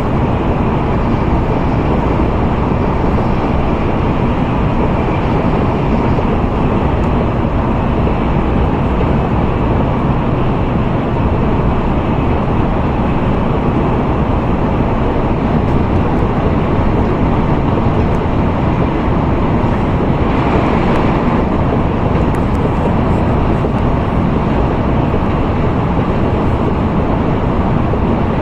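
Steady running noise of an N700A Shinkansen at speed, heard inside the passenger car: a continuous rumble and hiss from the wheels and air, with a brief brighter hiss about twenty seconds in.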